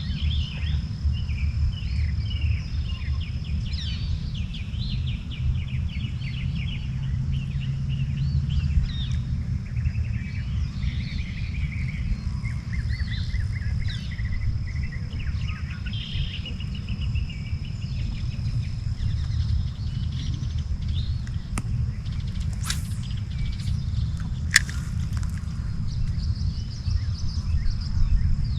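Wild birds chirping and calling on and off over a steady low rumble and a constant high-pitched drone, typical of insects. A few sharp clicks come about three-quarters of the way through.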